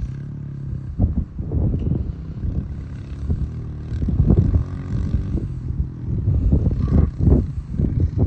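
Honda CRF125 dirt bike's small single-cylinder four-stroke engine running steadily for about a second, then revved up and down in repeated uneven bursts as the throttle is worked.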